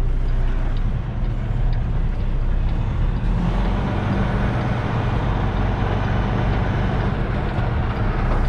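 Semi truck's diesel engine running steadily, heard from the cab, joined about three seconds in by a steady rushing hiss.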